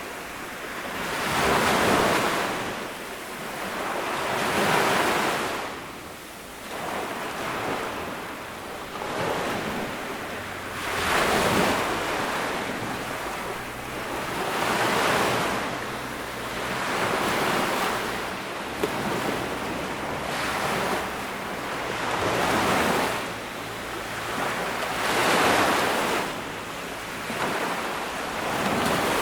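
Sea waves breaking and washing up a sandy beach, the surf swelling and falling back about every three seconds.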